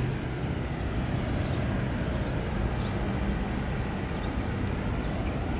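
Outdoor street ambience: a steady low rumble and hum of road traffic, with no single sound standing out.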